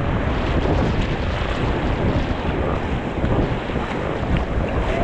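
Steady rush of wind buffeting the microphone over rushing river water, heard from a raft.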